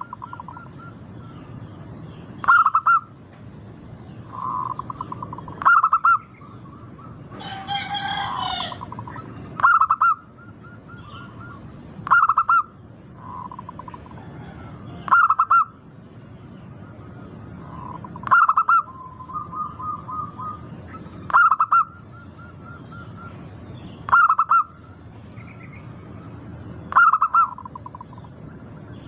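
Zebra dove (perkutut) cooing. Each short, clipped phrase ends in a quick run of notes and repeats about every three seconds over a steady hiss. About eight seconds in there is one different, longer call with several pitches.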